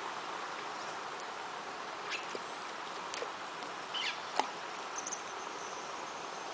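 Outdoor ambience: a steady background hiss with a few brief high chirps, one falling in pitch about four seconds in, a sharp click just after it, and a thin high whistling tone lasting about a second near the end.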